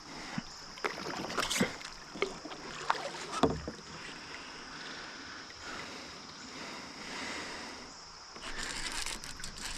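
Handling and water sounds of a kayak on a river: about half a dozen sharp knocks in the first few seconds, then quieter water noise, over a steady high-pitched hum.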